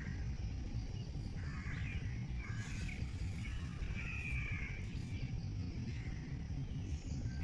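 Birds giving several harsh, caw-like calls a second or two apart, over a steady low rumble.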